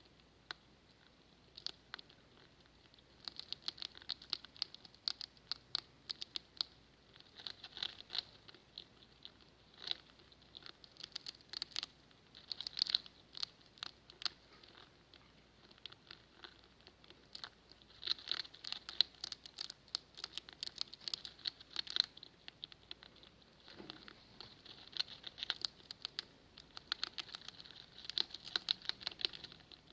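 Pet rats making rapid crackling clicks, likened to fire crackling, in irregular bursts of a second or two with short pauses between.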